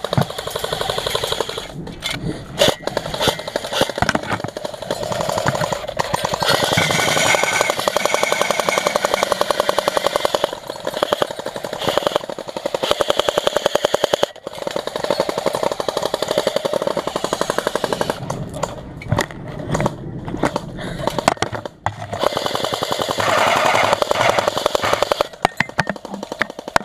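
Airsoft gun firing long full-auto bursts, a rapid stream of clicking shots broken by short pauses: the players are emptying the last BBs from their magazines.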